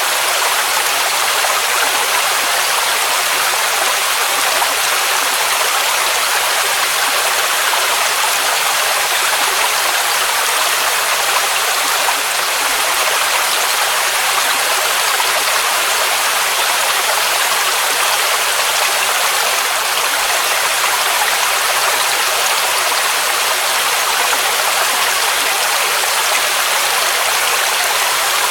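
Waterfall rushing steadily: a dense, even hiss of falling water, bright with little deep rumble.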